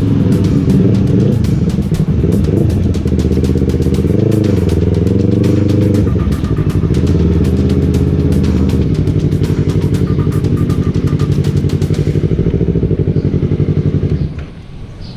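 Yamaha R3 motorcycle engine running through its exhaust silencer, blipped up and back down a couple of times, then switched off shortly before the end.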